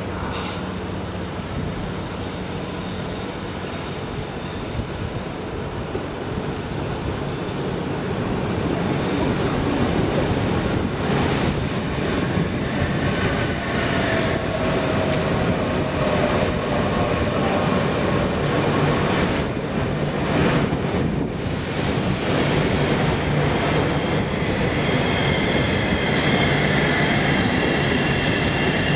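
An AnsaldoBreda V250 (Fyra) high-speed electric train rolls slowly through the station and passes beneath, its wheels squealing on the curved track in thin, high, steady tones. The rumble grows louder about eight seconds in as the train comes underneath.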